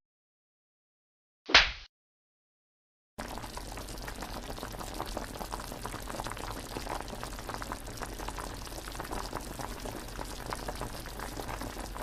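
A short, sharp burst of noise about one and a half seconds in. From about three seconds in comes a steady, crackling bubbling of liquid, like water at the boil, from a sound-effect clip.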